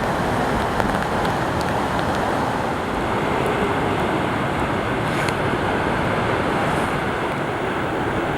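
Hurricane Florence's storm noise: a steady, dense rush of hurricane-force weather with a few faint ticks.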